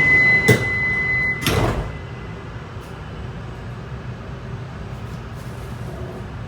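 Shinkansen car's door-closing buzzer sounding a steady high beep, then the sliding doors shutting with two thuds about a second apart. After that the car's interior settles to a lower, steady hum.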